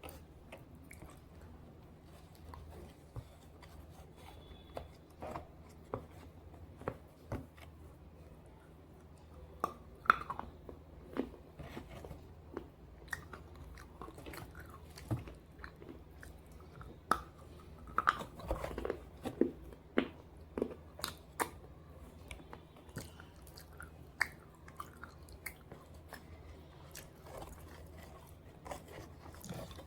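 A person biting and chewing pieces of slate, with irregular crunches and sharp cracks. The crunching is thickest through the middle stretch and sparser at the start and end.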